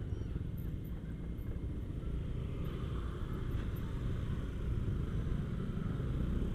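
Steady low rumble of a motorcycle engine and road noise while riding slowly.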